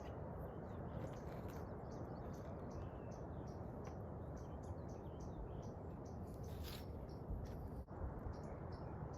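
A bird chirping over and over, short high calls about twice a second, over a steady rushing background noise.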